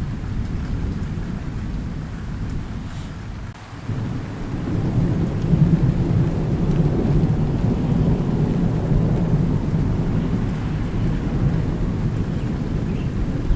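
Thunderstorm: steady rain with low rolling thunder. The rumble dips briefly, then a long peal swells about four seconds in and keeps rolling.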